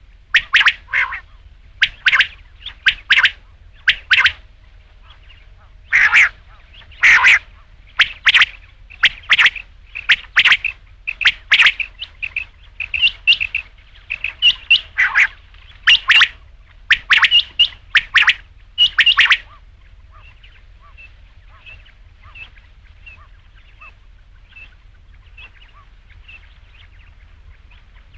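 Quail calling: sharp, repeated loud notes, one or two a second, often in pairs. About two-thirds of the way through the loud calls stop and only faint, short notes go on.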